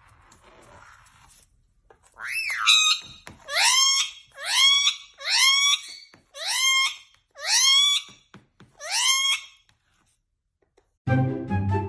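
An animal calling about eight times in a row, roughly once a second, each call a loud, pitched cry that rises and then holds. Music starts near the end.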